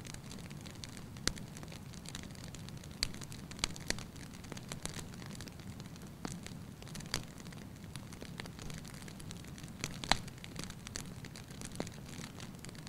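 Wood fire burning in a fireplace: a low, steady rush of flames with sharp, irregular crackles and pops, one louder pop about ten seconds in.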